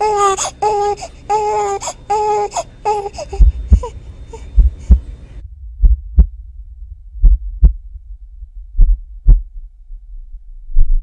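A baby crying in short, repeated wails that fall in pitch, fading out about three seconds in. A heartbeat thumps in lub-dub pairs beneath it and then alone, slowing toward the end.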